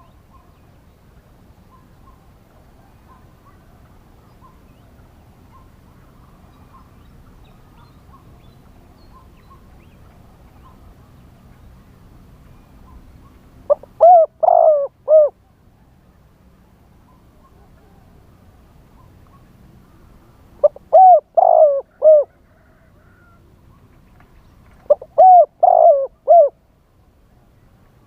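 Spotted dove cooing: three phrases of a few coos each, several seconds apart, the first about halfway through. Faint calls of other small birds sound in between.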